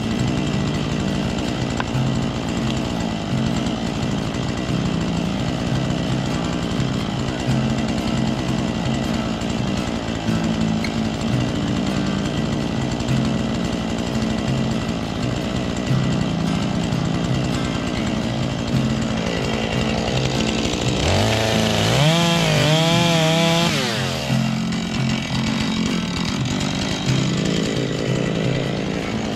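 Husqvarna chainsaw running steadily in a cut while felling a leaning tree, its engine pitch rising and wavering for a few seconds about three-quarters of the way through.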